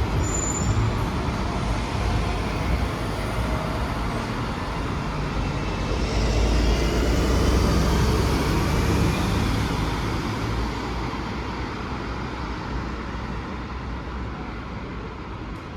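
Street traffic with a vehicle passing: a steady rumble that grows loudest about six seconds in, then slowly fades away.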